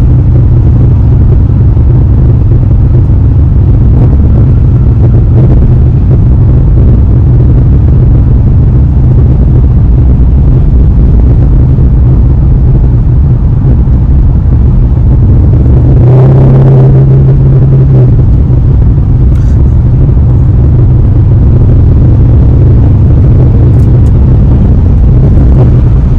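Porsche Panamera GTS V8 exhaust giving a loud, steady low rumble while driving, with a brief surge of engine sound for about two seconds around the middle.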